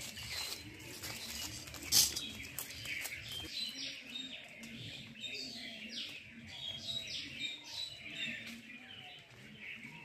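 Small birds chirping and calling repeatedly in short whistled notes, with a single sharp knock about two seconds in.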